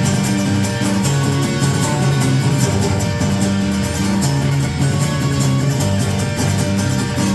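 Live band playing an instrumental passage of a song, guitar strumming over a moving bass line, with no singing.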